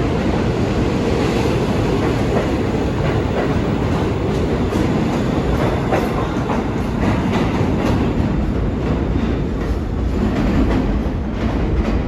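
New York City Subway train running along the track at a station platform: a steady loud rumble, with the wheels clicking over rail joints from about four seconds in.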